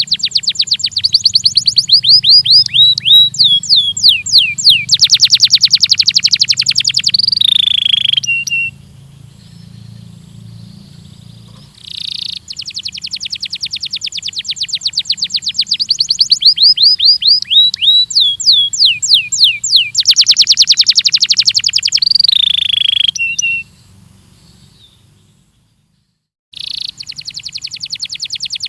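Belgian canary singing long phrases of rapid trills: runs of quick down-sweeping notes that give way to a very fast, buzzy trill. The song comes in three bouts, broken off twice by pauses of a few seconds.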